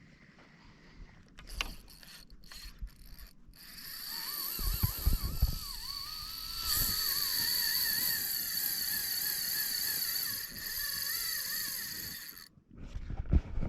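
Fishing reel whirring steadily for several seconds with a wavering whine as line runs through it, after a few clicks and knocks of handling the rod and reel. The whir cuts off about a second before the end, followed by more knocks.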